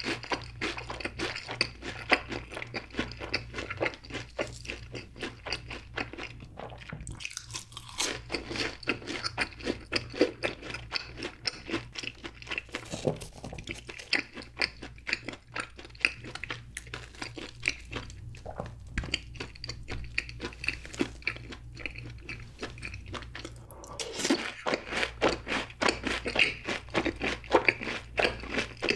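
Close-miked chewing of seasoned fried cheese balls: a dense, rapid crunching of the fried crust between the teeth, with short pauses between bites.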